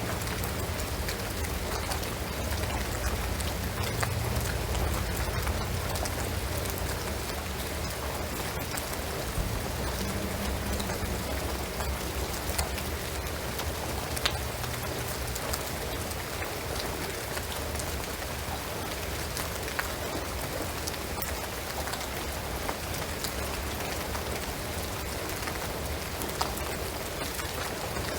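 Steady rain falling on a shingled roof and pine trees, with many individual drops ticking sharply through the even patter, over a low rumble.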